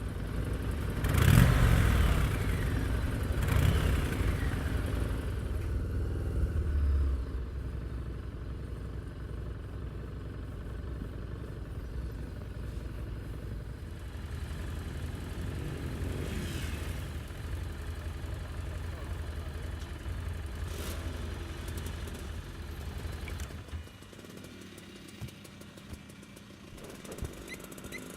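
Harley-Davidson Street 750's V-twin engine, blipped up three times in the first seven seconds, then running steadily at low revs until it stops about 24 seconds in, leaving a few faint clicks.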